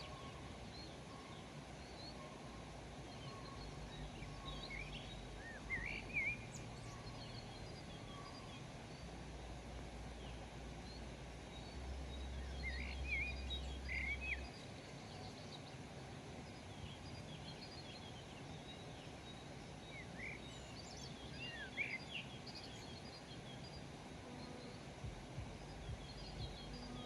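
Rural outdoor ambience: scattered short bird chirps and calls, in small clusters, over a steady background hiss. A low rumble comes in near the middle and cuts off a few seconds later.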